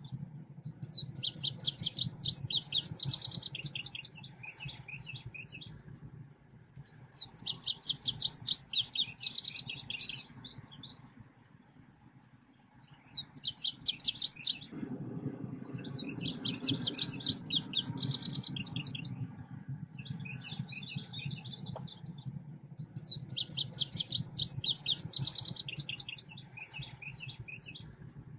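Recorded song of the bird called selendang biru, used as a lure and training call: bursts of fast, repeated high chirping notes lasting two or three seconds, coming about every five or six seconds, over a faint low hum.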